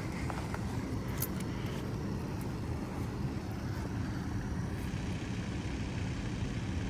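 Skid steer engine running steadily under work, a dense low rumble, with a few light clicks about a second in.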